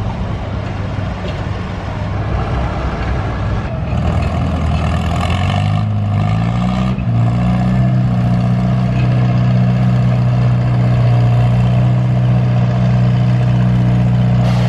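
Antique farm tractor engine running hard at a tractor pull; about five seconds in it revs up, its pitch rising over a couple of seconds, then holds steady at the higher speed.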